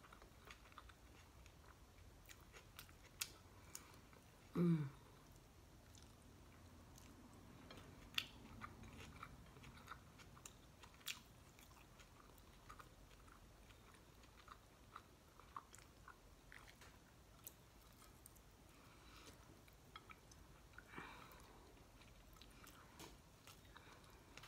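Soft chewing and crunching of crispy air-fried fish eaten by hand, with scattered faint clicks. About five seconds in, a brief falling hum from the eater's voice is the loudest sound.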